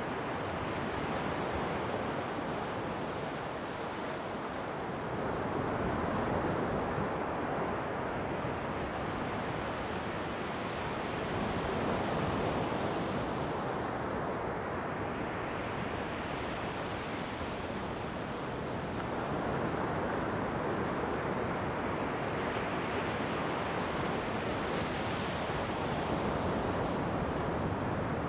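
Ocean surf: waves breaking and washing in over and over, the rush of water swelling and easing about every six seconds.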